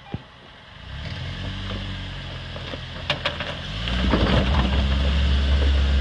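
Off-road 4x4's engine running at low, steady revs as it crawls slowly up a rocky climb, getting much louder about four seconds in. A few sharp knocks come around three to four seconds in.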